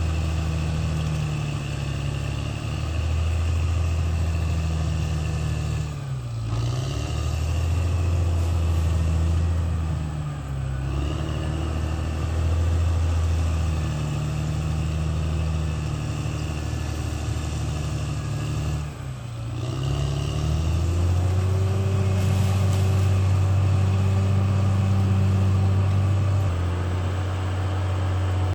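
Diesel engine of a CAT D6R XL bulldozer running continuously. Its speed dips briefly three times, about 6, 10 and 19 seconds in, then runs steady from about 21 seconds.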